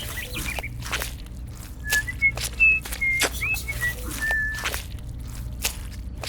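Irregular sharp clicks and taps, with a run of short, high whistled chirps in the middle, over a low steady hum.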